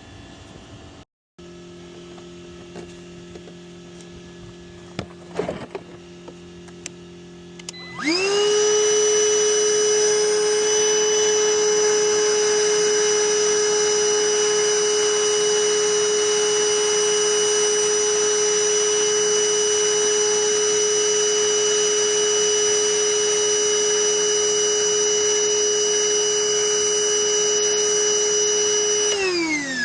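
Wet/dry shop vacuum switched on about eight seconds in: its motor spins up to a loud, steady high-pitched whine, holds it for about twenty seconds, then winds down in pitch as it is switched off near the end. Before it, a low steady hum.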